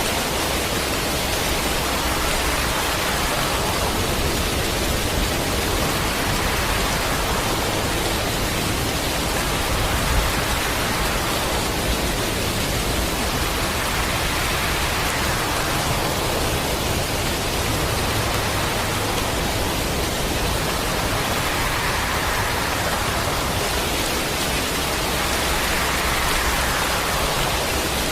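Heavy storm rain: a dense, steady hiss that swells and eases every few seconds, with a couple of faint knocks about ten and twelve seconds in.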